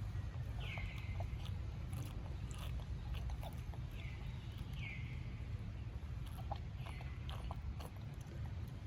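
Short high animal calls, each dropping in pitch then levelling off, repeated every one to three seconds, with scattered sharp clicks and a steady low rumble underneath.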